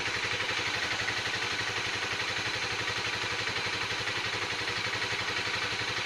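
Honda CBR 250 motorcycle engine idling steadily with an even pulse, freshly rebuilt.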